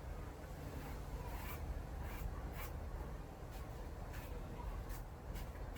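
Faint short scraping and rubbing strokes, several in a row at uneven spacing, as scrap material is handled.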